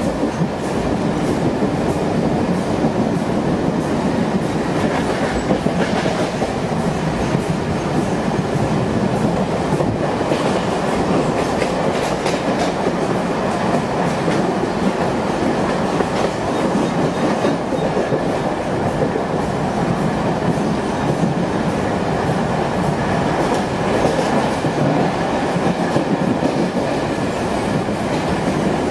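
Mumbai suburban local electric train running at speed, heard from inside the carriage: a steady rumble with the wheels clacking over rail joints.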